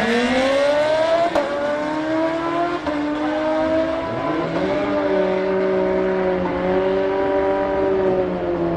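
Sportbike engine running at high revs. Its pitch rises over the first second, then holds fairly steady, with brief dips about three and four and a half seconds in.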